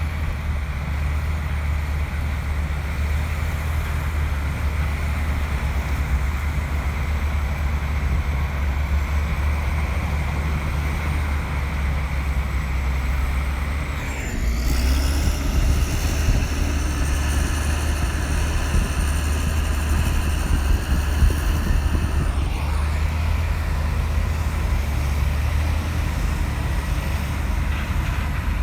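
Komatsu bulldozer's diesel engine running steadily at work. About halfway through it grows louder for some eight seconds, with a high whine over the engine, then settles back.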